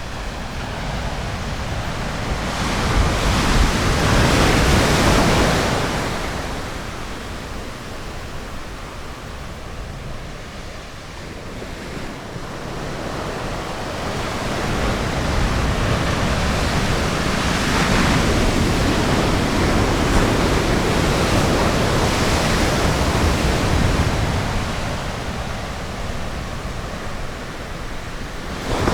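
Ocean surf breaking and washing on a beach, a steady rush that swells with a wave about three seconds in and again for a longer stretch in the middle, then eases. There is some wind on the microphone.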